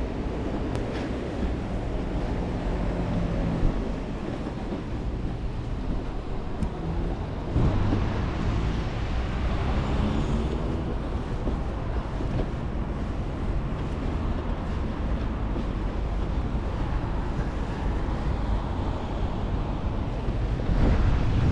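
Steady outdoor noise of passing traffic with wind buffeting the microphone, growing louder about seven and a half seconds in.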